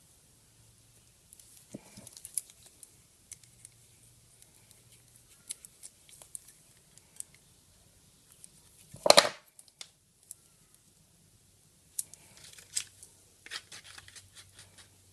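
Light clicks, taps and rustles of small plastic cup-holder parts being handled and glued with epoxy on a workbench. One louder, brief noise comes about nine seconds in, and a cluster of quick clicks follows near the end.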